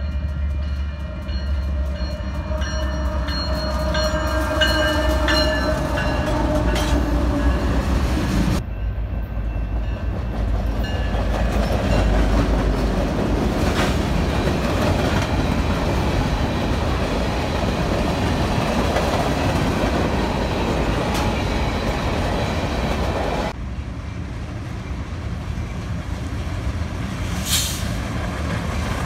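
Diesel freight train locomotive horn sounding a chord as the train approaches, its pitch falling slightly, over the engine rumble. Then freight cars roll past with a steady roar of wheels on rail, followed by the quieter rumble of another approaching locomotive.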